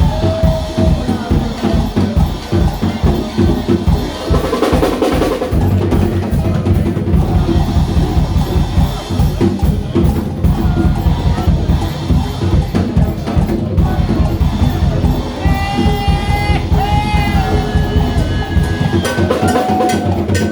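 Live band playing, with a busy drum kit driving a steady rhythm under the other instruments.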